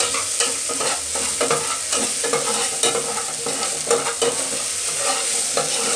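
Garlic, onion and ají de color frying in a metal pot on a gas burner, sizzling steadily while a spoon stirs them, with irregular scrapes and knocks against the pot. The sofrito is being browned and is not yet golden.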